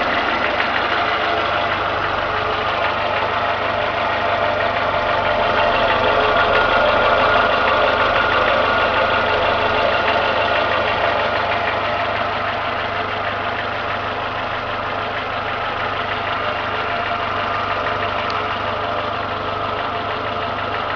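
Renault Logan engine idling warm with a steady knock. The knock appears only once the engine has warmed to two divisions on the temperature gauge and is absent when cold; its cause is unknown.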